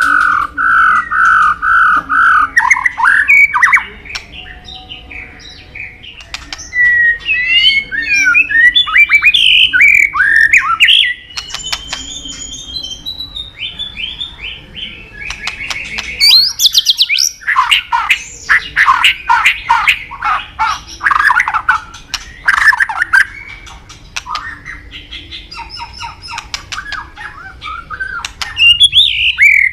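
White-rumped shama (murai batu) singing a long, varied song of rapid repeated whistled notes, rising and falling glides and harsh rattling calls. Loud bursts of song alternate with softer passages.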